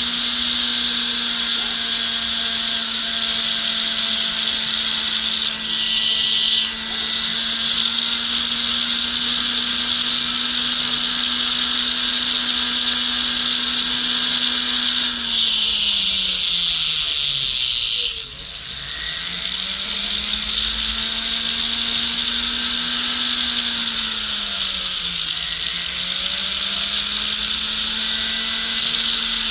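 Jeweler's electric rotary tool running steadily with a bright grinding hiss. Its motor slows sharply about halfway through and speeds back up, then dips briefly again near the end.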